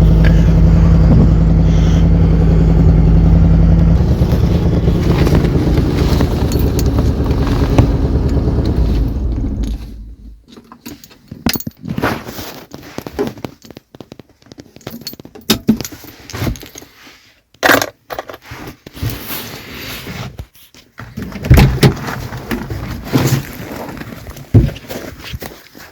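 Citroën GS air-cooled flat-four engine running steadily, its tone shifting about four seconds in, then switched off about ten seconds in. After it stops come scattered small clicks, knocks and scrapes.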